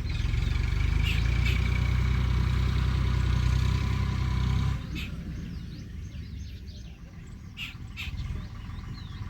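A motor's steady low hum that drops away sharply after about five seconds, with birds chirping briefly now and then throughout.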